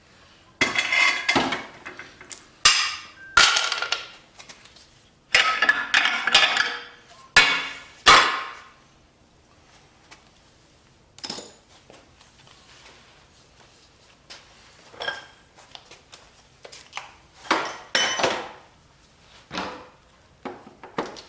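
Metal hand tools and engine parts clanking and clinking during an engine teardown: a run of loud clanks over the first eight seconds, then scattered lighter clinks.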